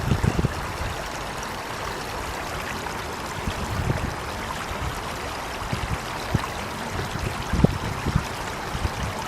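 Water running steadily, like a stream, with a few brief low thumps now and then.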